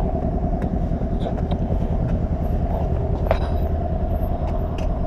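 Motorcycle engine running steadily at low revs, close up, with fast even firing pulses and a few faint clicks.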